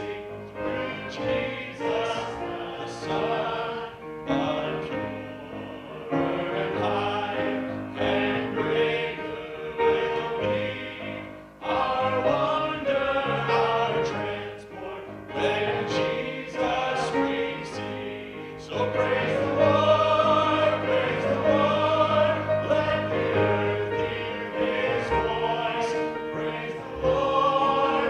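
A vocal group singing a gospel song together in harmony.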